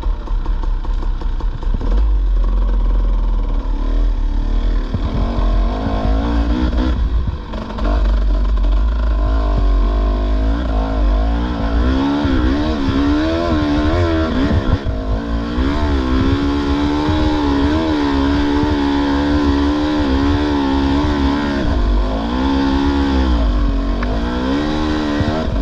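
Dirt bike engine revving up and down under load, its pitch rising and falling again and again with a steadier stretch in the middle, while the rider slips the clutch hard.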